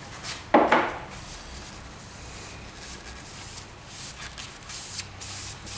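Paper towel wiping the wooden bowl with mineral spirits, a soft scratchy rubbing, with a brief louder scrape or bump about half a second in.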